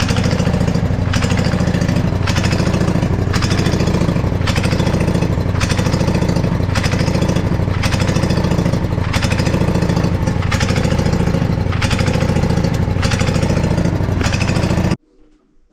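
Husqvarna riding mower's engine running during a carburetor tune-up, swelling in level about once a second as it surges. It still pops and farts, which the owner suspects is a fuel filter clogged with dirt. The sound cuts off suddenly near the end.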